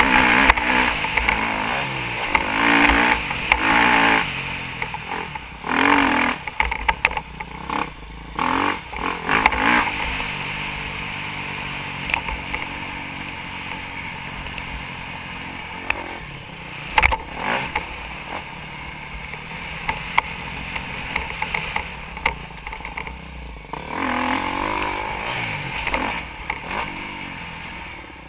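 Motocross dirt bike engine revving up and down repeatedly as it rides. The revs are louder and more frequent early on and near the end, steadier in the middle, with one sharp knock about two-thirds of the way through.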